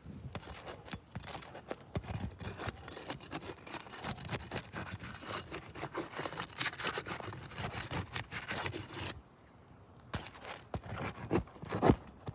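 Roof shingles being lifted and worked by hand, scraping and rubbing with many small clicks and taps, a brief pause about nine seconds in and a sharper knock near the end. The shingles are already loose and unsealed.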